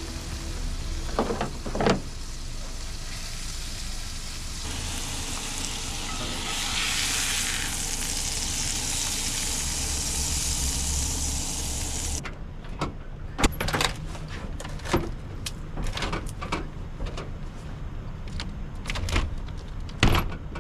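Food sizzling in a cast iron skillet, a steady hiss. About twelve seconds in, the hiss stops abruptly and a run of sharp clicks and knocks follows.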